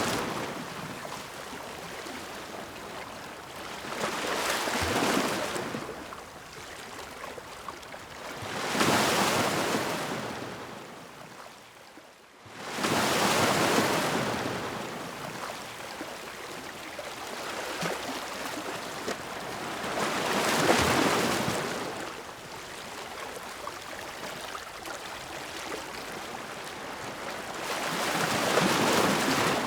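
Ocean waves breaking and washing ashore: a hiss that swells and fades about five times as each wave comes in. It briefly drops almost to quiet about twelve seconds in, then the next wave comes in suddenly.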